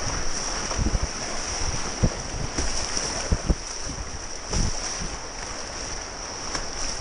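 Steady rush of river water, with irregular low thumps of wind buffeting the microphone.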